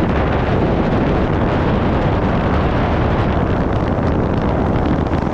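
Steady wind rush buffeting the microphone of a camera on a moving scooter, a loud, even rumble with the ride's noise beneath it.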